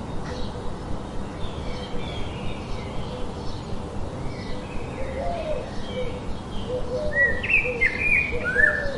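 Birds chirping and calling: short high chirps throughout, with lower sliding calls and louder chirps coming thicker about halfway through.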